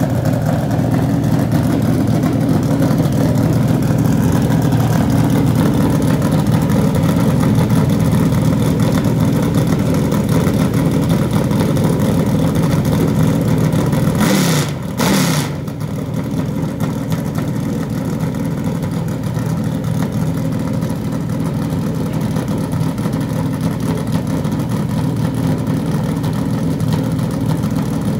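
NASCAR Cup car's V8 engine running at a steady fast idle while it warms up. About halfway through the engine note briefly dips and falls in pitch, then climbs back to its steady idle.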